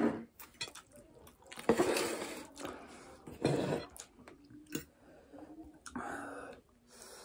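Close-miked eating sounds of spicy stir-fried noodles being chewed, with three louder noisy bursts about two, three and a half, and six seconds in.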